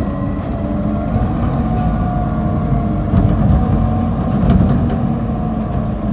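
Garbage truck engine running steadily, with a few faint knocks.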